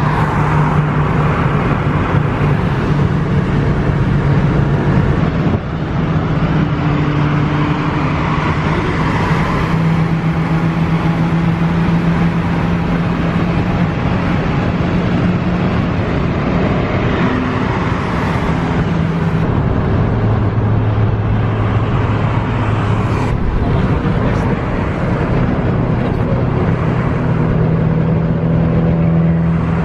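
Car driving along: a steady engine drone over road noise, its pitch shifting a few times.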